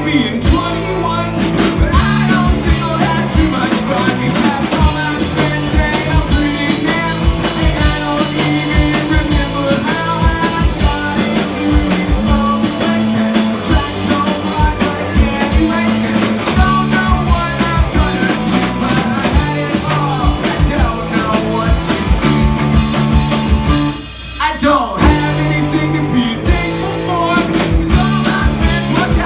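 Live rock band playing a song with drum kit, guitars and singing; the music drops out briefly about 24 seconds in and comes straight back in.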